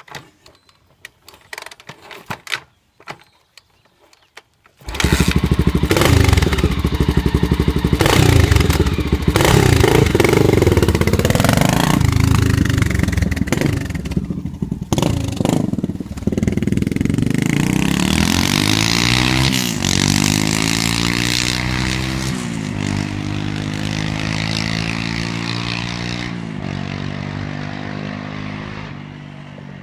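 Honda XL600R's single-cylinder four-stroke engine starting about five seconds in through a homemade chambered slip-on muffler (3.5-inch pipe with slash-cut baffles), revved several times, then settling to a steady idle that dips and recovers a few times. The exhaust note sounds kind of like a Flowmaster.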